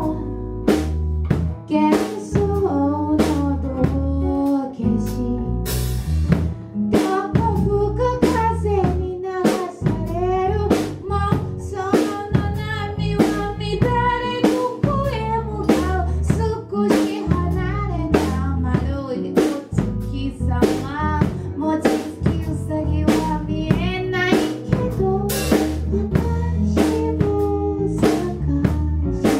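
Band music with a drum kit playing a steady beat of snare and bass drum, under a melody line that bends in pitch.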